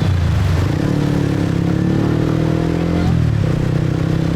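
Motorcycle engine pulling away, its pitch rising for a couple of seconds, then dropping about three seconds in and running steady.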